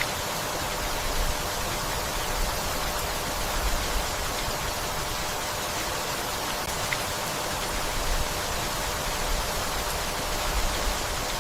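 Steady rainfall, an even hiss of rain with a few soft low swells now and then.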